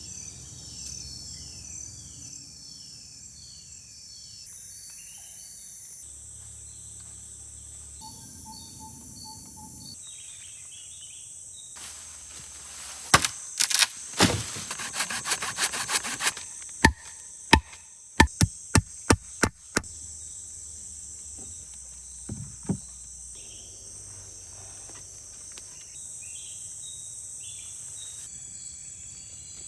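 Forest background with insect and bird chirps, broken in the middle by a run of loud, sharp strikes on wood, ending in a steady series of about two a second.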